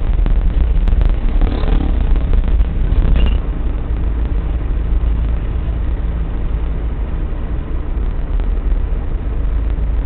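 Steady low rumble of a car engine and road noise, a little louder for the first few seconds.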